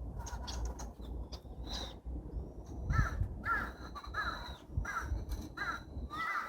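A bird giving a series of short, harsh calls, about six in quick succession over the second half, against a steady low background rumble.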